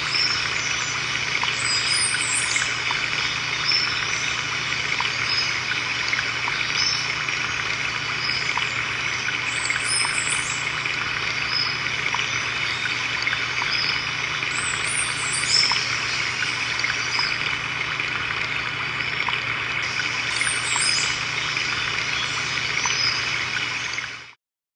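Steady running, trickling water with high chirping calls repeating every second or two over it. The sound cuts off suddenly near the end.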